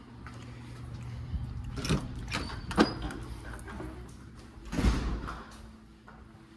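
A door being worked: a couple of sharp clicks, one with a short high squeak, then a longer sliding rush about five seconds in.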